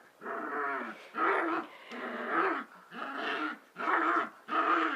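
Puppies growling in play, a run of short pitched growls and yaps, about eight of them.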